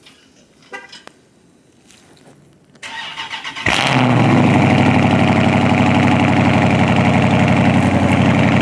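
Dodge Charger Scat Pack's 392 HEMI V8 on a cold start: the starter cranks for about a second, the engine catches with a loud flare about four seconds in, then settles into a steady idle.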